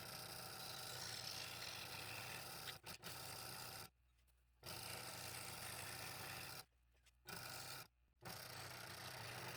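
Small power drill boring blade-entry holes through 1/4-inch Baltic birch plywood, a steady motor whir with a rasping bite. It stops abruptly three times, briefly about 4 s in and again around 7 and 8 s in.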